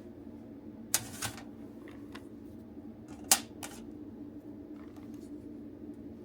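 Sharp clicks and clacks of hard plastic parts of a toy transformation belt being handled while it is taken apart: two about a second in, two louder ones about three seconds in, and a few fainter ticks. A steady low hum runs underneath.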